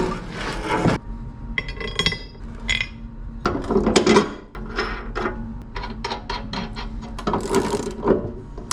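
Metal hand tools clinking and clanking against metal, in a string of short irregular knocks. About two seconds in there is a brief ringing metallic hit.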